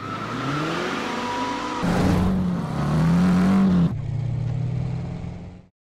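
Ford Mustang GT's V8 engine accelerating hard, its pitch climbing, dropping at a gear change about two seconds in and climbing again. It then holds steady and cuts off abruptly near the end.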